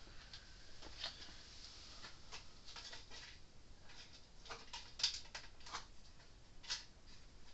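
Faint, irregular clicks and taps of a small screw, washer and the plastic fence-charger case being handled during reassembly.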